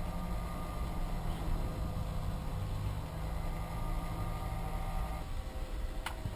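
Small 12-volt PC cooling fans running with a steady whirr and a low hum; the hum drops out about five seconds in, and a single click follows near the end.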